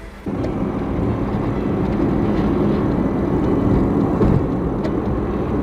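A heavy vehicle's engine running loudly and steadily under load, cutting in abruptly just after the start.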